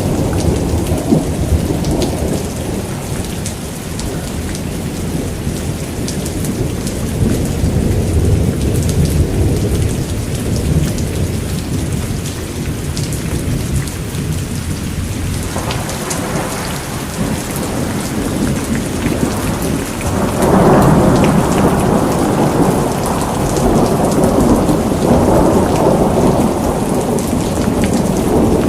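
Steady heavy rain falling on surfaces, with rolling thunder rumbling underneath. The thunder swells louder about two-thirds of the way through.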